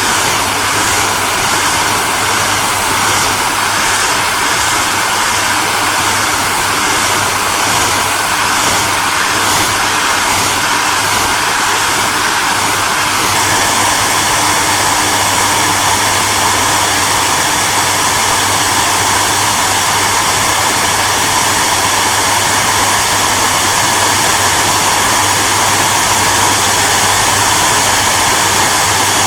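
Hair dryer running steadily: an even rush of blown air over a low motor hum. About halfway through, the sound shifts slightly, losing a faint high flutter and becoming a touch fuller and louder.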